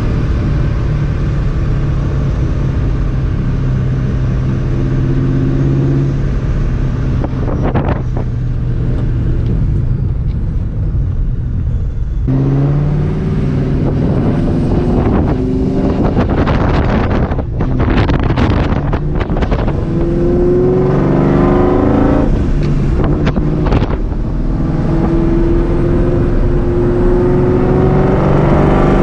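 Vortech-supercharged 4.6-litre two-valve V8 of a 2004 Ford Mustang GT, through long-tube headers and a Borla ATAK exhaust, cruising at a steady note for several seconds, then easing off. From about halfway through it accelerates hard, its pitch rising in several climbs with brief breaks for gear changes between them.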